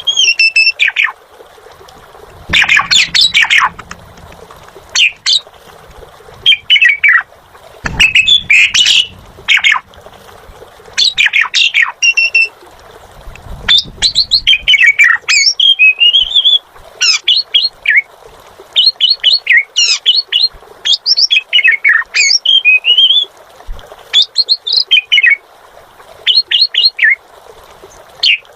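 Asian pied starling (jalak suren) singing at full volume: phrase after phrase of quick notes, short clicky ones mixed with whistled glides, with brief pauses between phrases.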